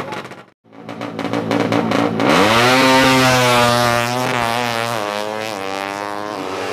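Racing motorcycle engine: after a brief dropout, the revs climb about two seconds in and hold high, then the pitch wavers.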